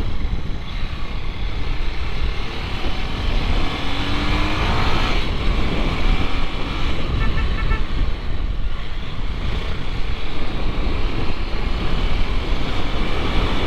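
Bajaj Pulsar motorcycle, its engine built up to 220 cc, being ridden: a steady rush of engine, wind and road noise, with a short rising note about four seconds in.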